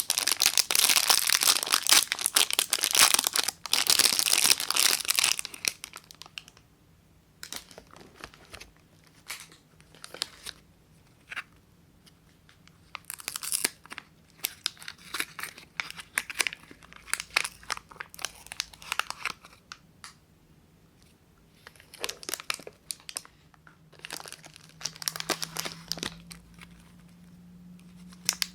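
Soap wrapper being torn open and crinkled: a dense, loud stretch of tearing and crinkling for the first five seconds or so, then scattered shorter rustles and crackles with quiet gaps between them.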